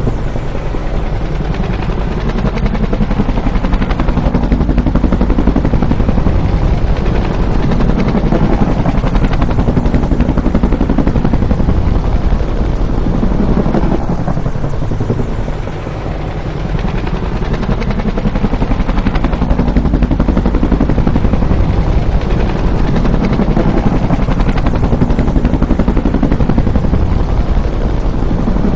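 Bell UH-1 "Huey" helicopter flying by, with the rapid beating of its two-blade main rotor. The sound swells and eases in slow waves and dips briefly about halfway through.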